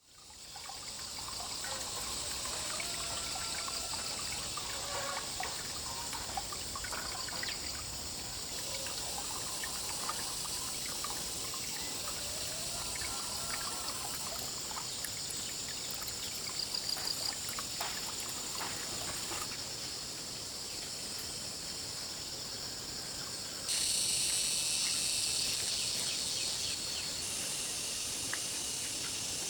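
Outdoor rural ambience: water trickling under a steady high-pitched insect drone, with faint chirps. The background changes abruptly a few times, as at cuts, and gets louder near the end.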